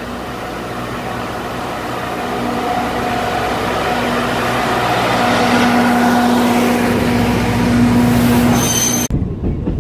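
Alishan Forest Railway train running, a steady rumble with a whine that grows louder. It cuts off suddenly near the end.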